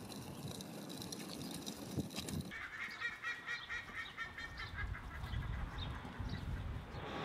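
Low background noise, then from about two and a half seconds in a run of rapid, repeated honking bird calls that overlap one another, as from a small flock.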